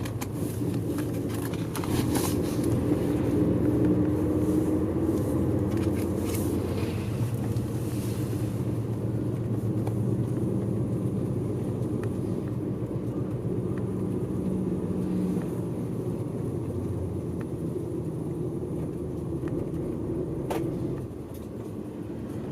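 Tour coach's engine and road noise heard from inside the cabin while the bus runs: a steady low hum, with a few light clicks in the first several seconds. The hum drops slightly near the end.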